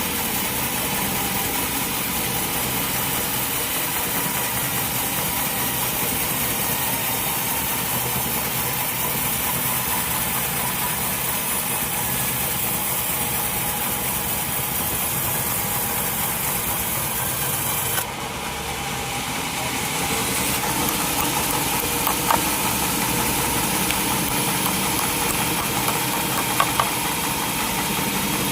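Sawmill machinery running steadily with an engine-like hum. About two-thirds through, the sound drops suddenly and then builds back up, and a few short sharp clicks follow near the end.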